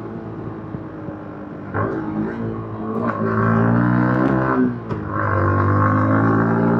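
Yamaha MT-15's 155 cc single-cylinder engine through its stock exhaust, riding on part throttle at first, then accelerating with rising pitch from about two seconds in. Near the five-second mark the revs dip briefly, then the engine runs steady and louder.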